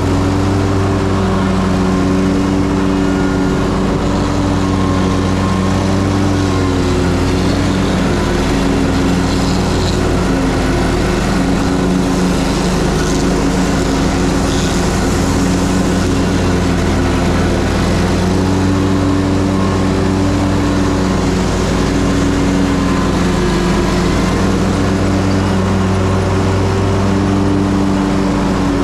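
Ferris Z3X zero-turn mower running at full throttle while mowing, a steady engine hum with a wash of blade and deck noise. The engine pitch dips slightly now and then as it takes load in the grass.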